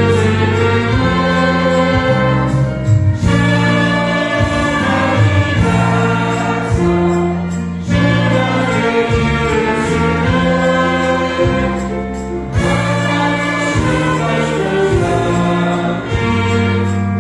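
Choir singing a hymn in held chords over instrumental accompaniment with a stepping bass line, in phrases of a few seconds with short breaks between them.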